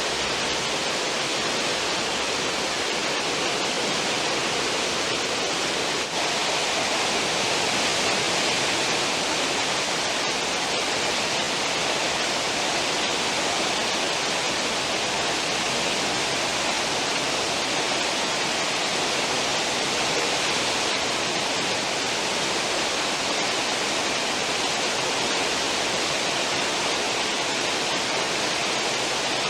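Churning white water of a cruise ship's stern wake, a loud, steady rush of water with no letup.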